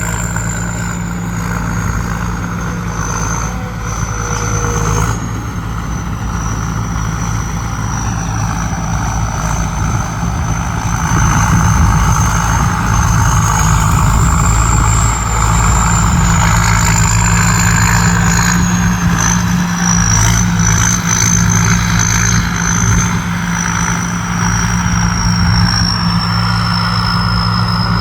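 Combine harvester's diesel engine running under load while harvesting, a steady loud drone with a high whine that wavers in pitch; it grows louder about a third of the way in.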